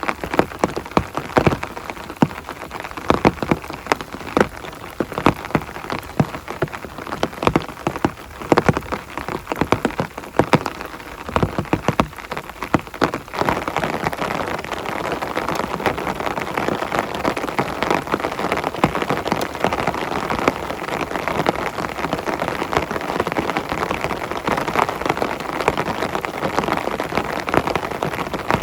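Heavy rain on a surface. For roughly the first half, large separate drops strike loudly and irregularly; about halfway through it changes to a denser, steady downpour hiss.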